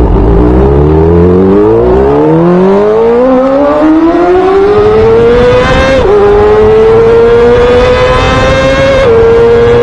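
Honda CBR600 inline-four sport-bike engine accelerating hard under full throttle, its pitch climbing steadily, with upshifts that drop the revs about six and nine seconds in before it climbs again. The ride is inside a road tunnel.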